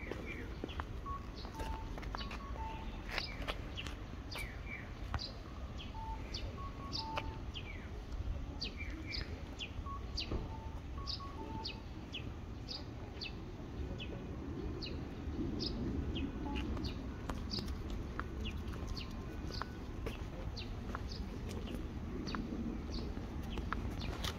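Small birds chirping: many short, quick downward chirps repeated over and over, with short lower notes in pairs here and there, over a steady low background rumble.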